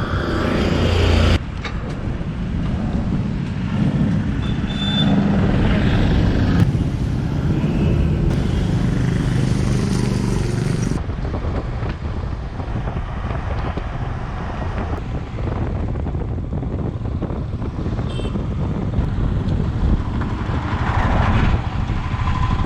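Royal Enfield Himalayan's single-cylinder engine running while riding on the highway, mixed with a steady rush of wind and road noise, cut abruptly several times between short segments.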